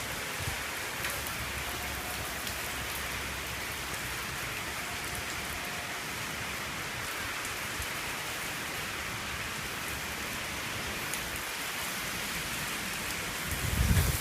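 Heavy typhoon rain falling steadily, an even dense hiss. Near the end, gusts of wind start to buffet the microphone with low rumbles.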